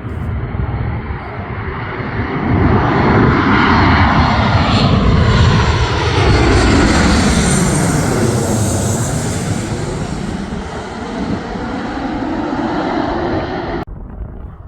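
Airplane passing low overhead. Its engine noise swells to a peak in the middle and then eases, with a hollow, sweeping shift in its tone. The sound cuts off suddenly near the end.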